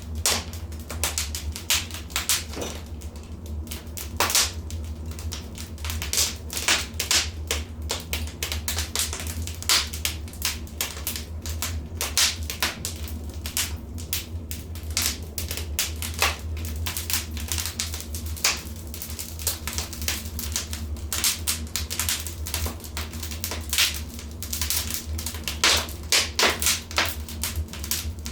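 Wood fire crackling in a fireplace: irregular sharp pops and snaps, some in quick clusters, over a steady low rumble.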